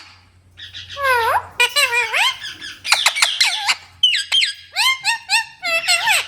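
Green parrot calling: a run of short, shrill calls that slide steeply down and back up in pitch, in quick clusters, starting about a second in.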